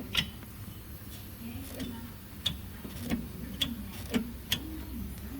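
Toyota HiAce suspension making its abnormal noise, a common fault on this van: sharp irregular clicks, about five in all, with short low creaks in between, over a low rumble.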